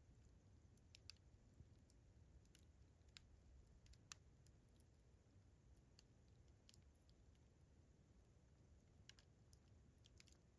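Faint campfire crackling: sparse, irregular sharp pops and snaps of burning wood, the strongest about four seconds in, over a low steady rumble.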